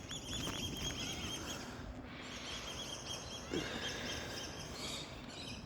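Birds calling in quick, high-pitched chirping trills, in two bouts of a couple of seconds each, over a low steady rumble.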